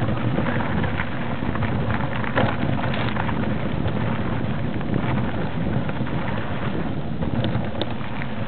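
A vehicle driving along a rough track: a steady low rumble with a constant noisy rush over it and scattered small clicks and knocks.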